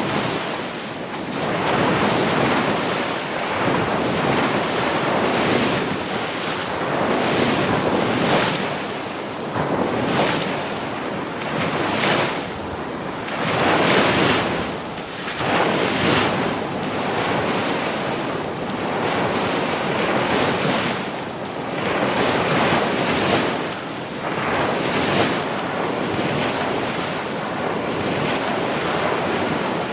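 Ocean surf: waves breaking and washing in as a continuous rushing noise that swells and eases every second or two.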